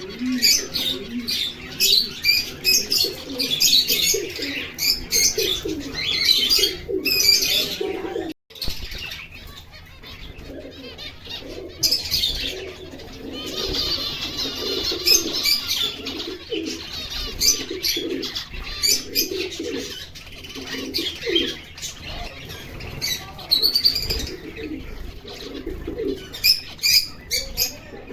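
Finches chirping in quick high notes, over a lower repeated cooing, with a brief break about eight seconds in.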